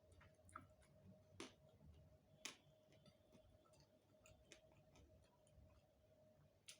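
Faint eating sounds: a few sharp mouth clicks and smacks of chewing, spread about a second apart, over a faint steady hum.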